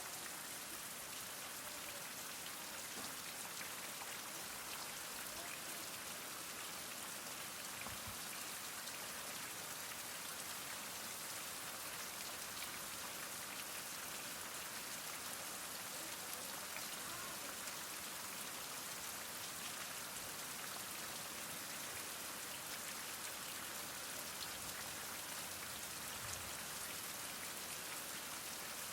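Heavy rain falling steadily: a dense, even hiss of drops with faint scattered ticks of individual drops striking surfaces.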